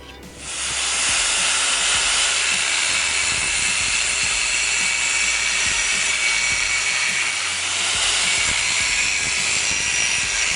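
Gas cutting torch hissing steadily as it cuts through steel plate, starting about half a second in.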